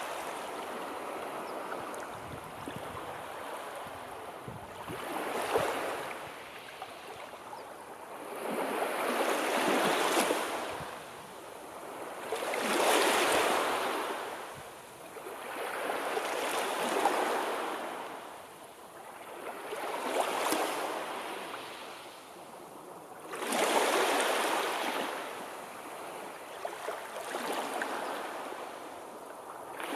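Sea waves breaking and washing back: a rush of surf noise that swells and fades every three to four seconds, about seven times.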